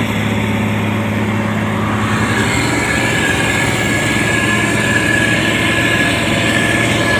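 Motor grader's diesel engine running steadily with a low drone, joined by a steady high whine that grows stronger about three seconds in.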